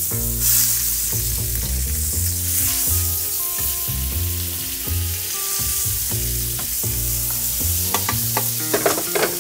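Smashed beef patty and sliced onions sizzling in skillets over high heat, with a steady frying hiss. A few sharp clicks of a utensil against the pan come near the end.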